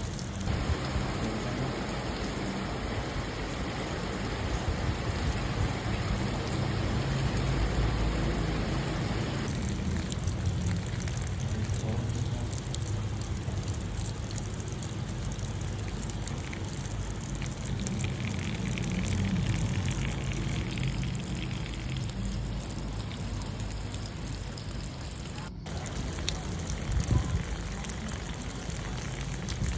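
Steady light rain falling, a continuous patter of drops, with a low hum underneath. The sound changes character about nine seconds in, and there is a momentary break near the end.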